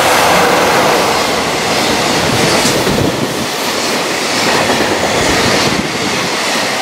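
A freight train hauled by a JR Freight EF66 electric locomotive passes at speed, followed by container flatcars, with a loud steady rush of wheels on rail. A few clacks sound as the wheels cross rail joints.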